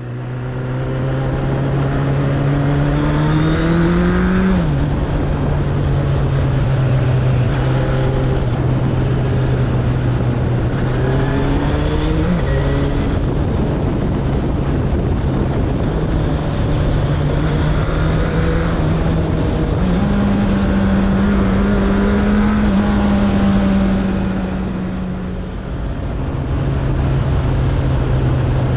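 Suzuki Bandit 1200's inline-four engine running while the motorcycle is ridden, its note climbing and then dropping at gear changes about four and twelve seconds in, holding higher for a few seconds and easing off near the end, over constant wind and road noise.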